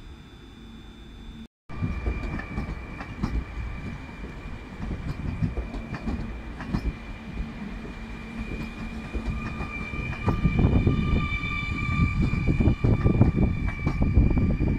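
Electric multiple unit moving off and passing close by, wheels clacking irregularly over the rail joints under a steady rumble, with a steady high whine above it. The train gets louder from about ten seconds in as it comes past. A quieter hum with faint steady tones comes before it, for the first second and a half.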